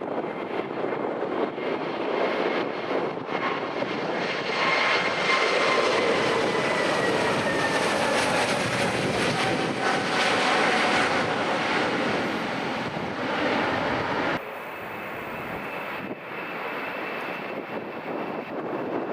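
Airliner passing by, its engine noise swelling to a peak with a whine that falls steadily in pitch as it goes past. About three-quarters of the way through the sound drops suddenly to a lower, steadier level.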